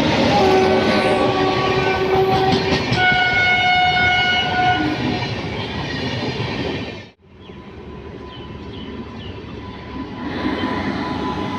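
Train sounding its horn for about five seconds over the rumble and clatter of its wheels, the horn's pitch changing about three seconds in. Around seven seconds the sound drops out abruptly and picks up again as steady running noise of the train.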